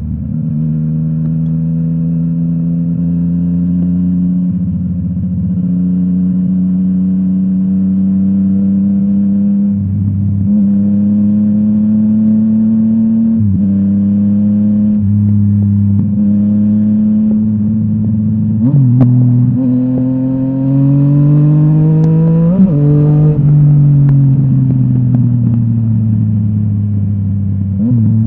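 Yamaha MT-09 three-cylinder engine through a full Akrapovic exhaust, accelerating through the gears: the pitch climbs and drops briefly at each shift several times. Near the end it revs up higher, then falls steadily as the bike slows on a closed throttle.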